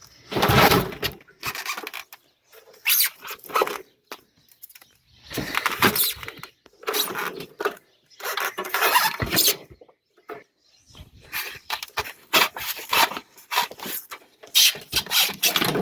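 RV water heater being dragged out of its wall opening, scraping and squealing against the compartment and its foam in repeated bursts of a second or two, as it is worked out in jerky pulls.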